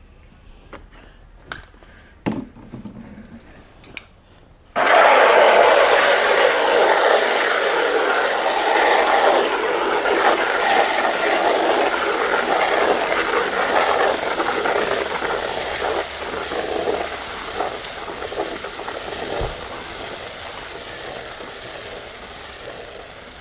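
A few clicks and knocks, then about five seconds in a sudden steady spray of water starts, hissing loudly against the car and slowly growing fainter.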